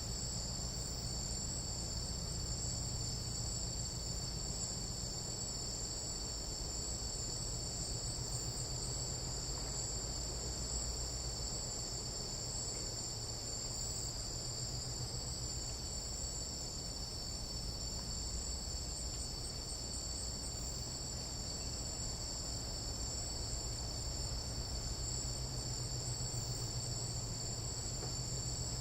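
Chorus of night insects in a Panamanian tropical jungle: several steady, high-pitched, unbroken trills layered together, over a low steady hum.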